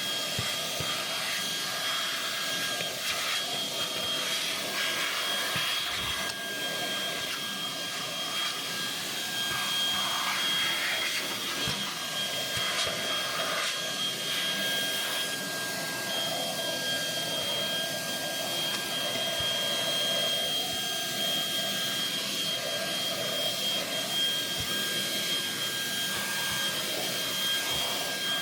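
Shark WV201 WandVac handheld vacuum running steadily with a high-pitched motor whine, sucking up loose hair and debris.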